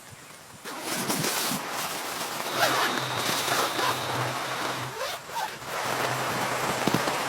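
Scratchy rasping and rustling of fabric being handled, starting about a second in after a quieter moment.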